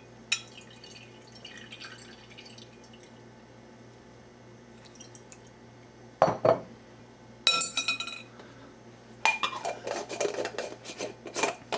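Glass jars and their lids clinking and knocking as they are handled and set down: a lone knock, then a ringing clink, then a run of clattering near the end.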